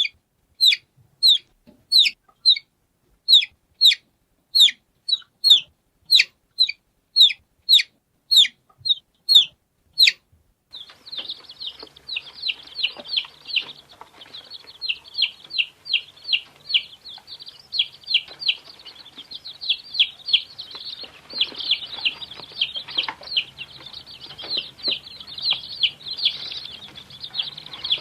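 Chicks peeping. First a single chick gives sharp peeps, each falling in pitch, about every half second. About ten seconds in, this changes to many chicks peeping at once in a dense overlapping chorus over a low hum.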